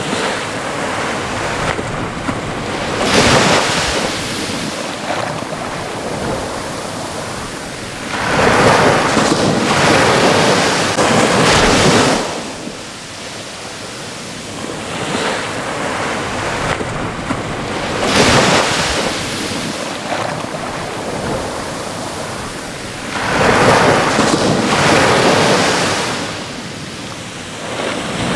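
Ocean waves breaking on a shore: a steady wash of surf that swells into a loud crash-and-rush every five seconds or so, some surges lasting several seconds before ebbing.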